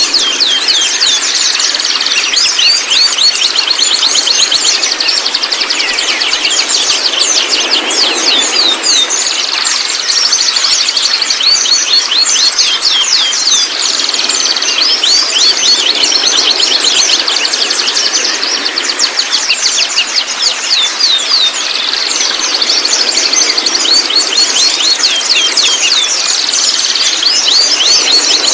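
White-rumped shama (murai batu) 'trotol': fast, rattling chatter of rapid high notes in runs of a few seconds, with hardly a pause between them.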